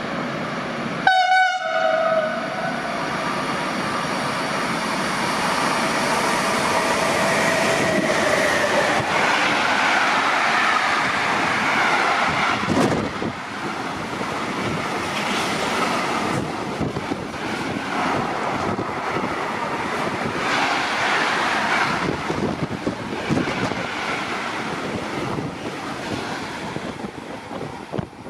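A train going through the station. A short horn blast sounds about a second in, then the train runs past the platform with a long, steady rumble and rattle, and thin high squealing tones rise above it midway.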